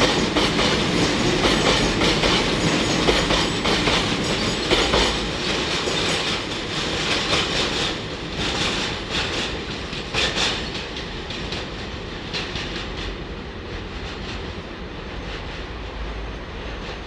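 Train running along the track, wheels clicking over rail joints, the noise gradually fading as it moves away.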